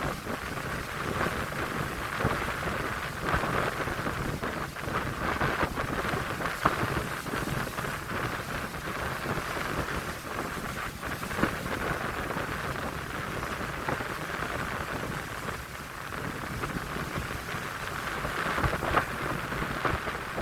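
Strong wind buffeting the microphone over the steady wash of heavy surf, with a few brief louder gusts.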